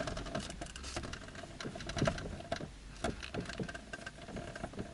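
Faint, irregular small clicks and rubbing as the VAZ-2110's steering is turned a little. The steering rack no longer crackles now that WD-40 has been sprayed in under its boot.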